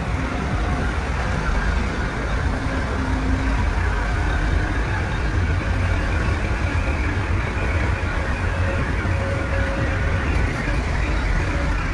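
Heavy diesel earthmoving machinery running steadily, a loud, continuous low engine drone with no sudden knocks.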